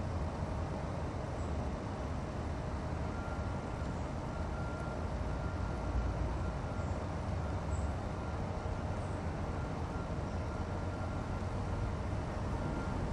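Steady low rumble of outdoor background noise with a faint steady hum, and a few faint high chirps scattered through it.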